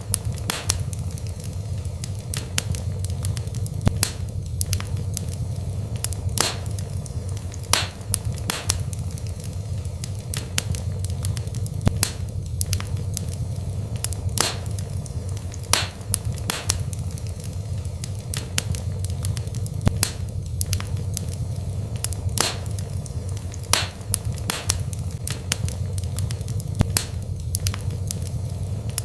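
Wood burning in a fireplace: a steady low rumble of flames with sharp crackles and pops every second or so.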